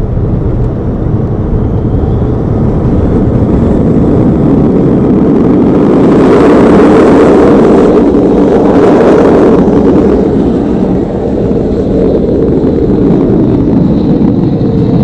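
Car running at speed: steady engine, road and wind noise, growing louder between about six and ten seconds in.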